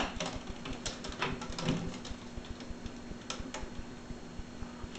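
Plastic water bottle being chewed and knocked about by a boxer puppy: scattered crinkles and clicks.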